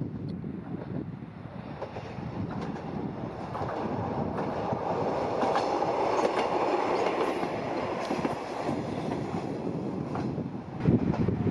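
JR West KiHa 120 diesel railcar passing on the track. Its engine and wheel noise swells to a peak about six seconds in and then eases, with wheels clicking over the rail joints.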